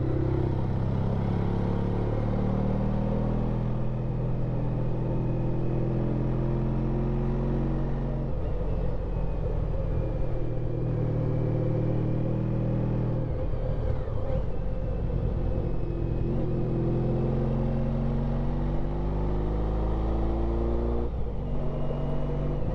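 Honda ST1300 Pan European's V4 engine pulling along a twisty road. Its revs rise and fall with the bends, and it drops off briefly about 8 s in, again at about 13 s and again near the end as the throttle is shut or a gear is changed. There is a steady rush of wind and road noise throughout.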